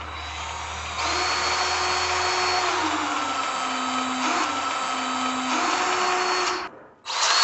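Battery-powered grease gun motor running in a steady whine while greasing the manure spreader's fittings. Its pitch drops for a couple of seconds midway, comes back up, and then the motor stops suddenly near the end.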